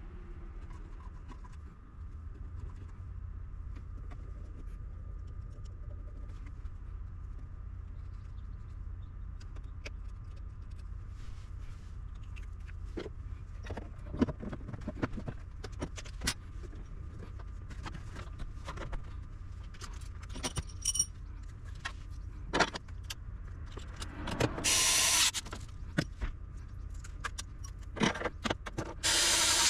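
Small metal parts and tools clicking and clinking as they are handled on a workbench, over a steady low hum, with two short, louder noisy bursts near the end.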